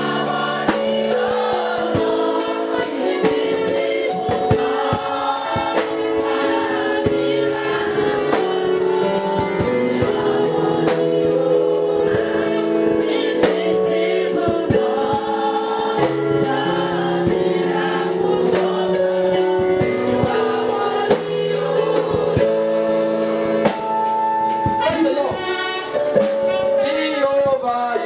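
Gospel choir singing a worship song over band accompaniment, with a steady beat.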